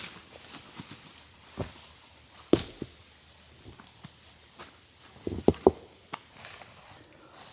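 Scattered short knocks and clicks over quiet ambience. The loudest comes about two and a half seconds in, and a quick run of three follows a little past five seconds in.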